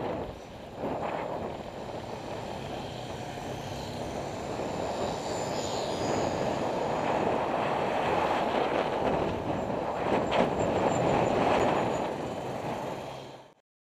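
Heavy motor traffic rumbling close by, mixed with wind rushing over the microphone of a moving bicycle camera. The sound grows louder through the middle, then cuts off suddenly near the end.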